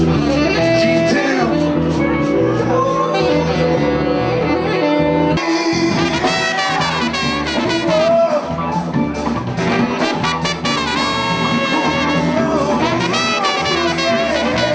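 Live Latin-groove band playing an instrumental passage, horns over a percussion groove. About five and a half seconds in, the bass drops out briefly and the music turns brighter and busier.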